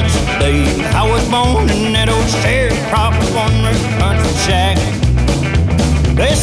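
Outlaw country band playing, with guitar over bass and drums keeping a steady beat.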